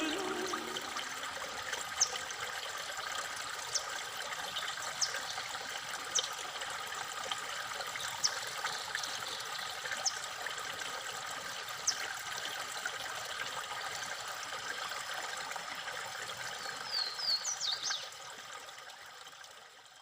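Steady running water, like a small stream or trickle, with a bird giving a single short, high chirp every second or two and a quick run of chirps near the end. The sound fades out over the last couple of seconds.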